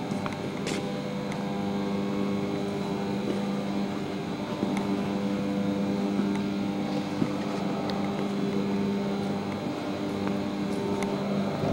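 Steady mechanical hum with a low drone and several higher tones held level throughout, with a few light clicks.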